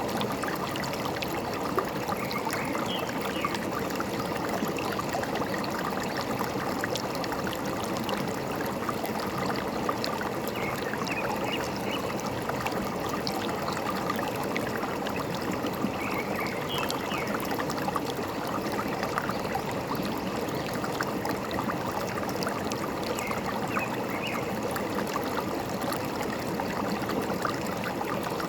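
A forest stream flowing and trickling steadily, with faint short bird chirps about four times, several seconds apart.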